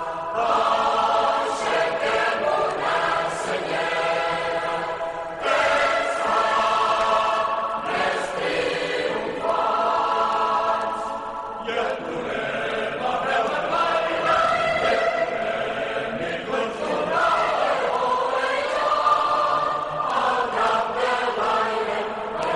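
A group of voices singing together in held notes, changing pitch every second or two.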